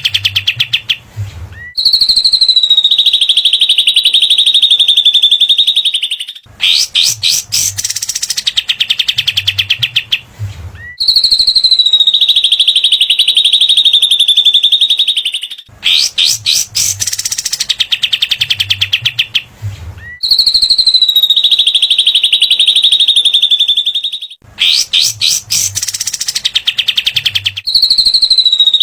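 Looped birdsong tutor recording of cililin and kapas tembak (katem) calls, loud. A fast rattling run of sharp notes gives way to a long, high, steady whistle, and the pair repeats about three times.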